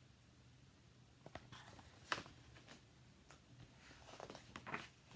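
Near silence over a faint low room hum, broken by soft paper rustles and small clicks, with one sharp click about two seconds in, as a picture book is handled and its page turned.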